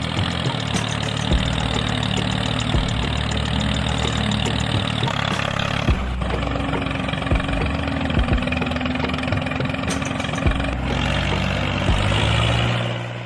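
A tractor engine running steadily at idle with a fast chugging beat.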